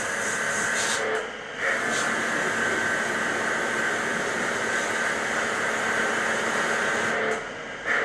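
A steady hiss of rushing air or gas, broken twice by brief gaps of about half a second, once about a second in and once near the end.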